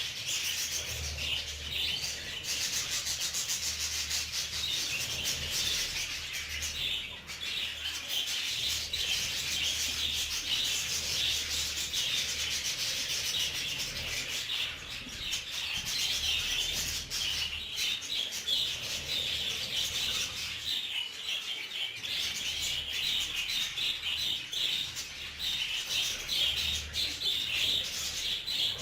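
Budgerigars chattering and warbling continuously in a dense, scratchy stream of high chirps.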